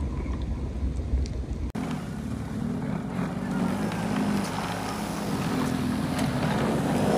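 Motor vehicle noise, a low engine rumble that changes abruptly about two seconds in to a noisier, wavering hum.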